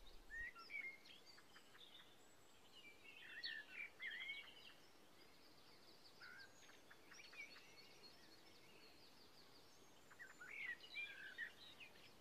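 Faint birdsong: scattered short chirps and whistles in clusters, with quiet between.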